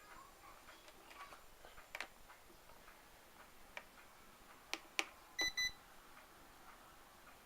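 A few sharp clicks, then two quick electronic beeps in a row about halfway through.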